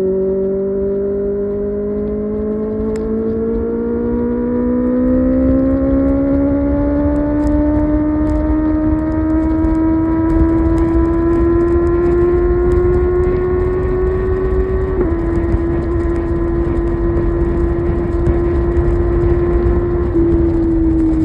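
Kawasaki ZX-6R's inline-four engine pulling steadily at highway speed, its pitch rising slowly for about fifteen seconds, then stepping down slightly and holding, and falling away near the end as the throttle eases. A constant wind rush runs underneath.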